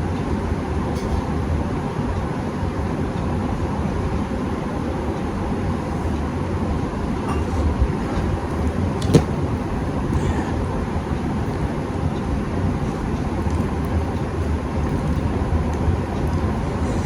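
Steady low rumbling background noise, with a single sharp click about nine seconds in.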